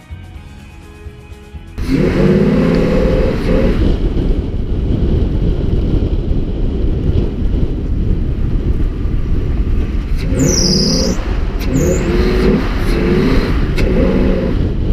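A motor vehicle engine starts up loudly about two seconds in and keeps running with a heavy rumble, its pitch rising and falling as it revs. A brief high squeal sweeps down and back up about ten seconds in.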